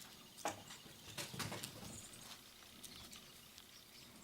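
A few light, irregular taps and knocks, with a small cluster of them a little over a second in.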